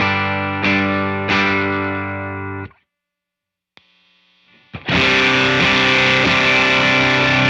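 Electric guitar through a JHS Kilt overdrive pedal set for high gain, played into a Walrus Audio ACS1 amp simulator. Two distorted chords are struck and left ringing, then cut off about a third of the way in. After a short silence a brighter, denser, sustained distorted riff starts about two-thirds of the way through.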